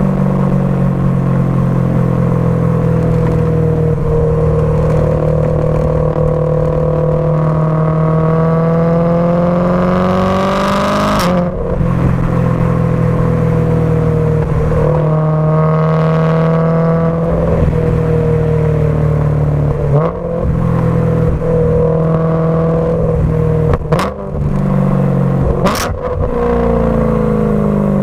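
Supercharged BMW M3 V8 through a Remus race exhaust, running loudly under throttle: its pitch climbs, cuts off sharply and falls back several times. A few sharp cracks come near the end.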